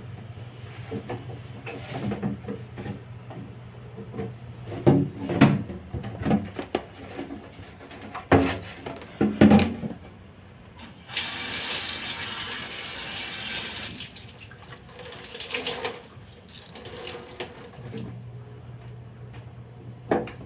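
Several loud knocks and clunks as fridge parts are handled, then a tap running into a sink for about five seconds, as the fridge parts are washed.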